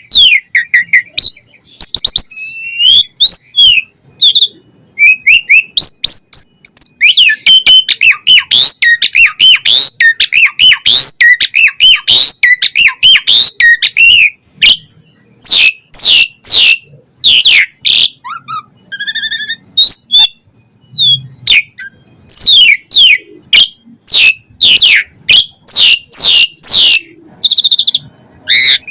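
Asian pied starling (jalak suren) in full song, varied and packed with fill phrases: sharp falling whistles and clicks, a stretch of fast jumbled chatter in the middle, then a run of loud descending whistled notes about twice a second near the end.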